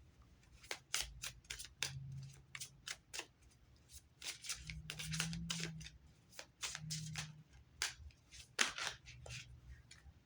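Oracle cards being handled and shuffled: a quick, uneven run of crisp card snaps and slides.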